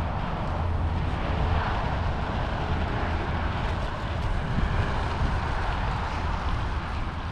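Steady rushing noise of a bicycle ride: wind buffeting the camera microphone with a deep rumble, over the tyres rolling on the road.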